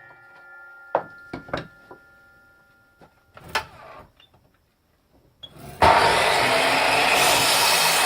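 A power tool's motor winds down and fades, followed by a few light knocks of wood being handled. About six seconds in, the tool switches on again and runs steadily at full speed.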